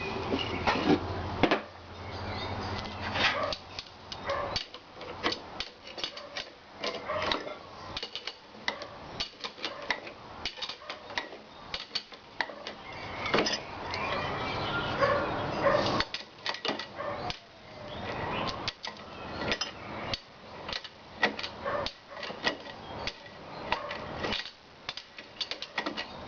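Irregular metallic clicks and knocks of an antique wrought-iron blacksmith's leg vise being assembled by hand, its parts and spring being fitted together.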